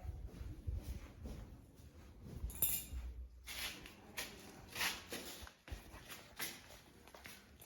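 Footsteps going down a small, old staircase, an uneven tread about every half second to second, with low rumbling handling noise in the first few seconds.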